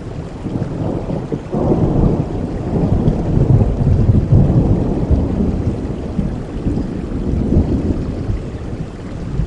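A long rumble of thunder over steady heavy rain: it builds about a second and a half in, is loudest in the middle, and slowly dies away.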